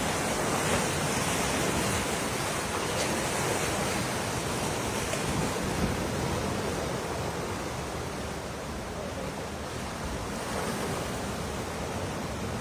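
Steady rushing noise of storm wind and water, an even hiss with no separate events.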